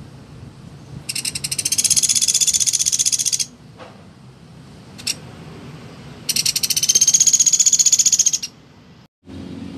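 Pelatuk beras woodpecker giving two rapid, high-pitched rattling trills of about two seconds each, a few seconds apart.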